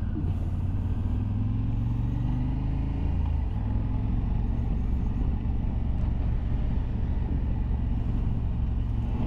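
Motorcycle engine running steadily under way, with road and wind noise; the engine note steps down slightly about three and a half seconds in.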